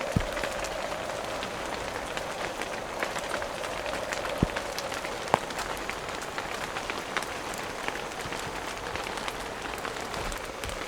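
Steady heavy rain with many individual drops ticking, and a few sharp knocks standing out above it.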